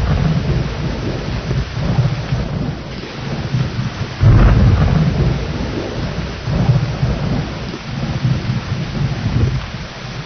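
Steady rain with rolling thunder: deep rumbles come and go throughout, and the loudest peal breaks out about four seconds in and rolls on for several seconds.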